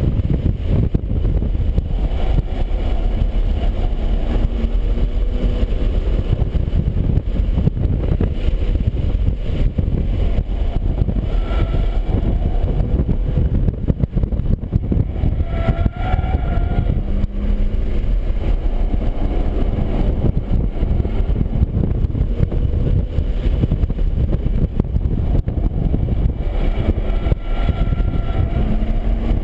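BMW 135i's turbocharged inline-six running hard under load, its pitch climbing and dropping back several times with the shifts and corners, over heavy low road and wind rumble.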